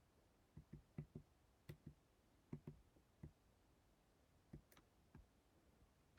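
Faint, sharp knocks of unknown cause inside a small room, about a dozen in irregular succession, many coming in quick pairs.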